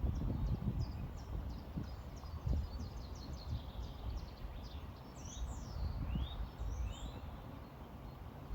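Small birds chirping: a quick run of short high chirps, then a few louder sliding notes about five to seven seconds in, over a steady low rumble.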